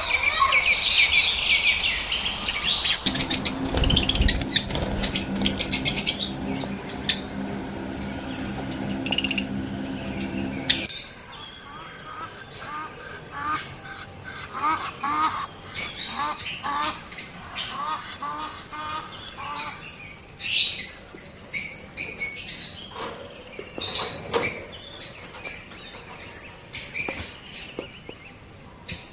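Lovebirds chirping and calling: a dense burst of chattering at first, then many short, sharp, high calls and quick repeated notes. A steady low hum runs under the calls from about three seconds in until about eleven seconds in.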